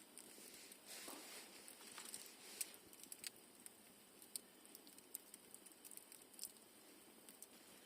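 Campfire crackling faintly: scattered small pops and snaps, irregular, with a brief soft hiss about a second in.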